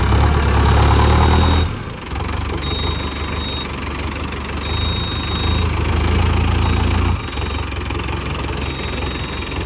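Mahindra Arjun Novo 605 DI tractor's four-cylinder diesel engine running, louder for the first second and a half, then steady.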